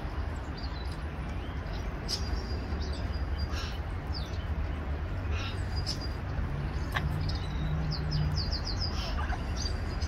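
Scattered short, high bird chirps over a steady low rumble, with a quick run of several chirps near the end.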